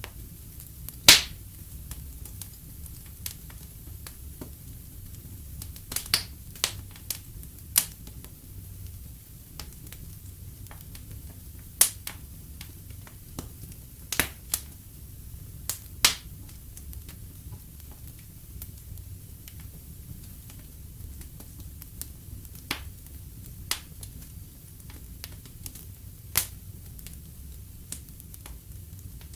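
Fireplace fire crackling, with sharp pops and snaps at irregular intervals over a steady low rumble of the flames.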